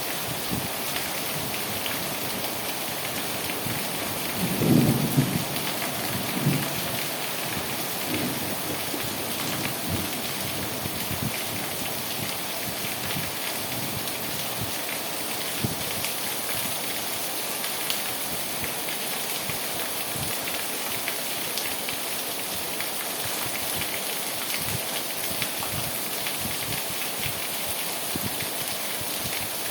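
Steady rain falling, an even hiss of many drops. About five seconds in comes a brief, louder low rumble, followed by two smaller ones.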